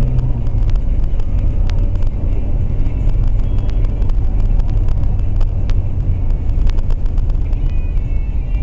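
A car driving, with a steady low rumble of engine and road noise and scattered faint clicks.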